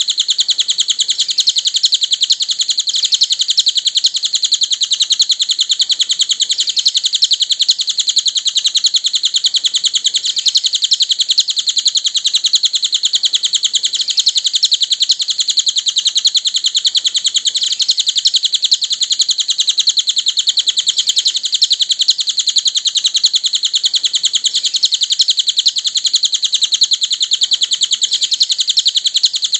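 Cililin bird singing: a continuous, rapid run of high, thin chirps with no pauses, the kind of song recording played to cage birds to teach them a song.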